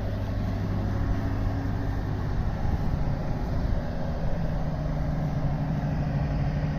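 Construction-site generator running steadily, a continuous low mechanical drone.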